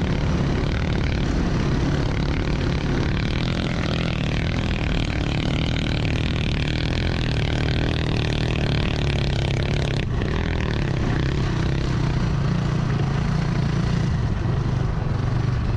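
Dirt bike engine running steadily while riding, with road and wind noise.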